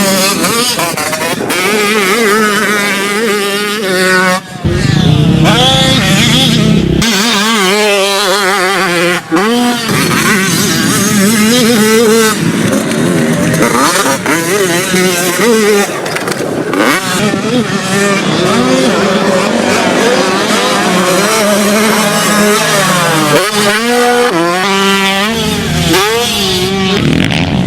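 250 cc two-stroke motocross motorcycle engine revving hard at full throttle, its pitch climbing and dropping again and again as it runs up through the revs and shifts. There are short abrupt breaks a few times.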